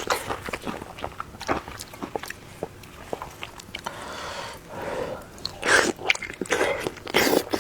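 Close-up eating sounds: a person biting and chewing food, with many short wet mouth clicks and a longer, noisier stretch about four seconds in.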